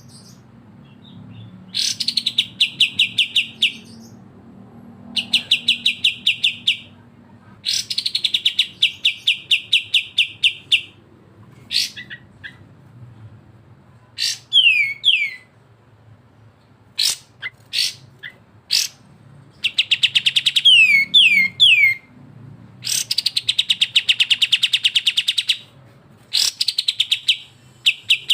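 Kapas tembak and cucak jenggot birdsong: repeated bursts of a fast, rattling trill of evenly spaced high notes, each burst lasting two to three seconds, with short pauses between. In the second half these are mixed with quick falling whistled notes and single sharp chips.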